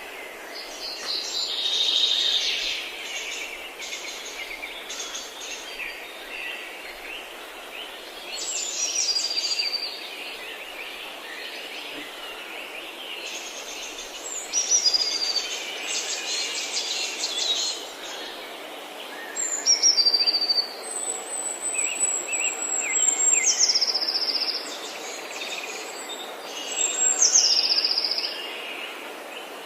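Several forest birds singing at once. One repeats a high whistled phrase that falls in pitch in steps, every several seconds, over lower chattering songs and a steady background hiss.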